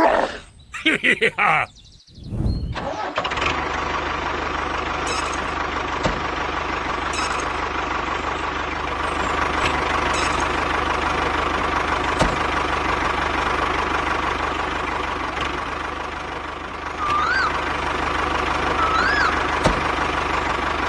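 A tractor engine starts about three seconds in and then runs steadily. A few short chirps come near the end.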